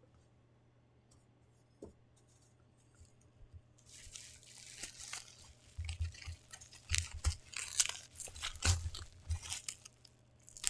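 Plastic packaging crinkling and being torn open, with dull knocks from handling the box, starting about four seconds in after near silence.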